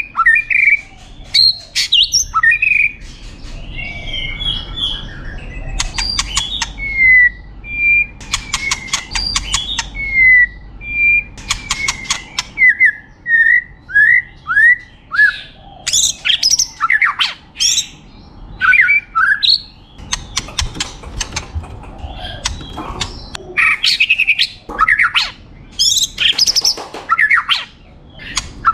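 White-rumped shama (murai batu) singing a long, varied song: clear whistled notes and falling slurs, runs of short repeated notes, rapid rattling trills and harsh squawk-like calls, with short pauses between phrases.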